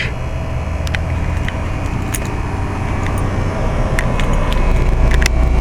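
1997 Rheem 3-ton straight-cool central air-conditioner condensing unit running: the scroll compressor and condenser fan make a steady low hum with a rush of air, with a few faint clicks.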